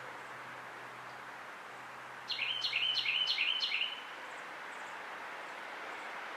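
A songbird sings one short phrase of five quick, repeated down-slurred notes, starting about two seconds in, over a steady background hiss.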